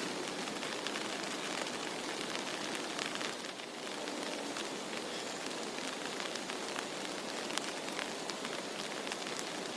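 Heavy rain falling steadily, with many sharp taps of individual drops striking a nearby surface.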